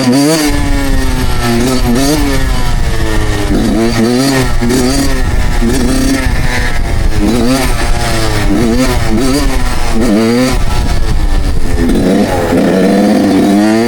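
Suzuki two-stroke dirt bike engine being ridden, its pitch rising under throttle and dropping back about six times in a row.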